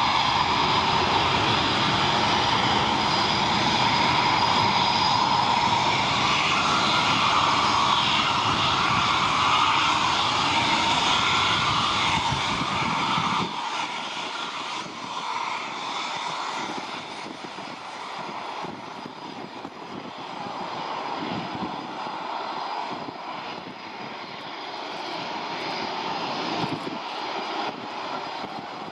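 Military jet aircraft taking off: loud engine noise with a steady high whine. About halfway through the deep rumble drops away suddenly and the sound fades to a quieter, thinner engine noise.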